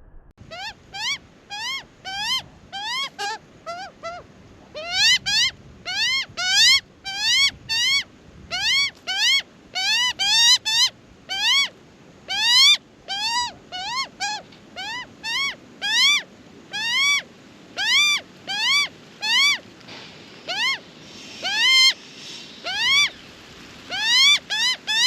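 Juvenile Australian magpie begging for food: a steady run of short, rising squawks, nearly two a second.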